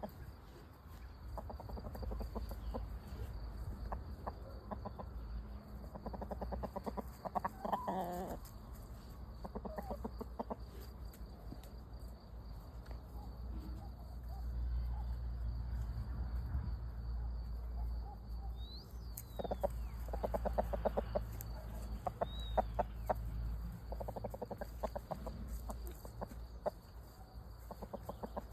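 Chickens clucking in repeated bursts of quick pulses, with one louder, longer squawk about eight seconds in, over a steady low rumble.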